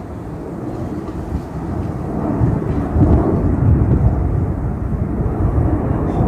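Airliner's engines passing overhead on climb-out after takeoff: a deep, rumbling roar that grows louder over the first three seconds and then holds loud.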